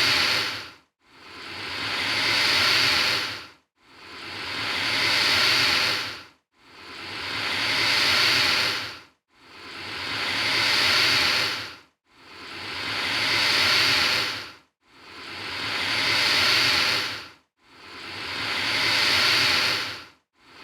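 Alligator hissing, the same hiss repeated about every three seconds, seven times. Each one swells over about two seconds and then cuts off sharply, with a brief silence before the next.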